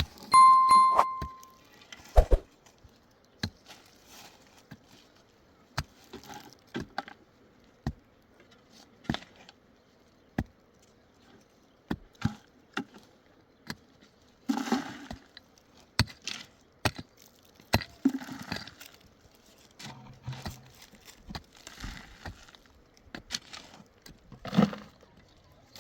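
Irregular knocks, cracks and scrapes of hand work with wood and stone, single sharp hits spread unevenly, with short scraping or rustling passages in between. A brief high tone sounds near the start.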